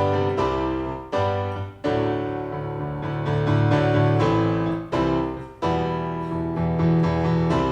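Keyboard playing an instrumental break of a mid-tempo rock song: sustained chords with a bass line, struck afresh every second or so, with brief breaks between phrases.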